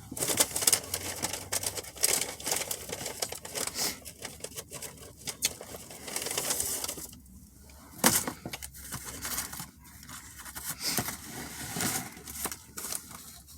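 Close-up eating sounds: chewing a Philly cheesesteak sandwich, with irregular clicks, smacks and crinkles.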